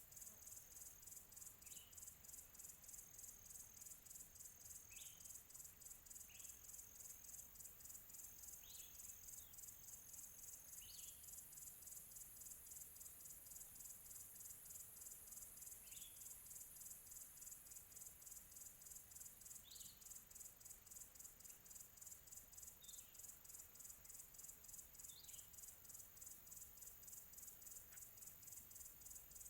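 Faint crickets chirping in a rapid, even pulse, with short high bird chirps every few seconds.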